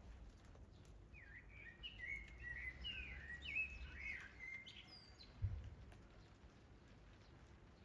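A songbird sings one warbling phrase of quick rising and falling whistles for about three seconds, over a faint hiss of light rain with scattered drip ticks. A short low thump comes about five and a half seconds in.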